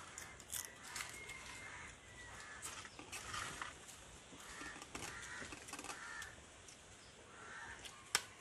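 A bird cawing faintly several times, with light clicks of a spoon against a plate and one sharper click near the end.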